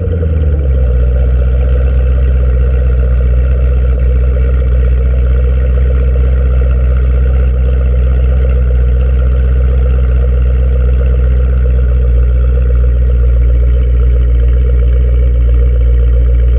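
2014 Camaro ZL1's supercharged 6.2-litre V8 on a cold start, heard from behind the car at the exhaust: the start-up flare settles within the first second into a steady, loud fast idle.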